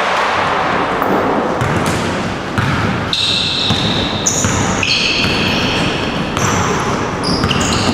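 Indoor basketball game: a ball bouncing on the court and sneakers squeaking on the floor, in an echoing gym. High short squeaks come repeatedly in the second half.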